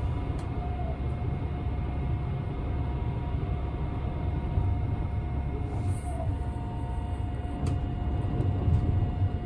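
Steady low running rumble of a Tobu Spacia limited express electric train, heard from inside the passenger cabin, with faint steady whines above it and a couple of light clicks.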